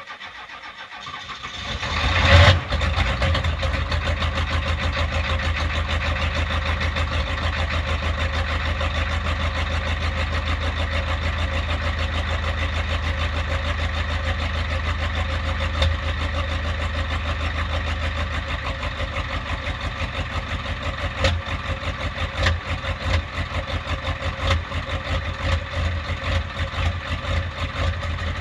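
A 1993 Ford F-350's 7.3 IDI V8 diesel cranking on the starter for about two seconds in the cold, catching with a brief loud rev, then settling into a steady idle. Later the cold idle turns uneven and loping.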